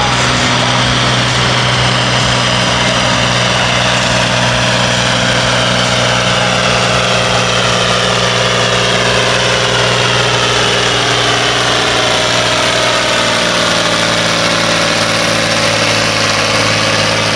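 Pulling tractor's engine running hard under load, one loud continuous engine note whose pitch sinks slowly as the revs drop.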